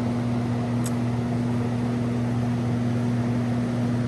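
Steady low hum with a constant airy hiss from a running machine, unchanging throughout, with one faint tick about a second in.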